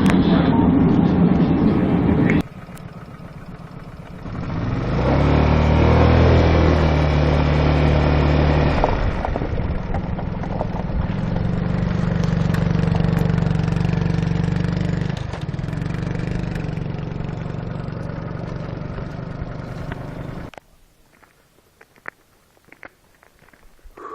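A motor vehicle's engine running while driving, in clips cut together. The engine picks up about five seconds in, holds steady, and cuts off abruptly near the end, leaving faint clicks.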